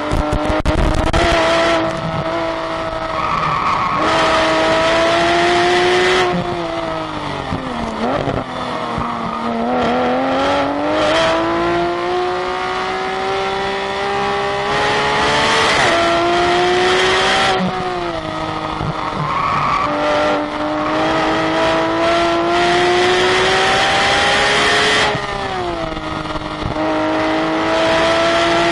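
Race-track car engine under hard driving: the revs rise and fall through the gears. They drop to a low note under braking about eight seconds in, then climb again, with brief dips at the gear changes.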